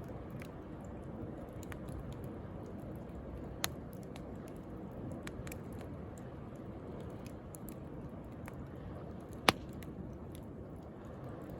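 Wood bonfire crackling, with scattered small clicks and two sharper pops, one a little before four seconds in and a louder one about nine and a half seconds in, over a steady low rush of sea waves.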